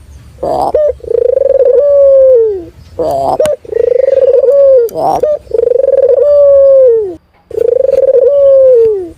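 Puter doves (Barbary doves) cooing: a short clipped note followed by a long, loud held coo that drops in pitch at its end, repeated about four times.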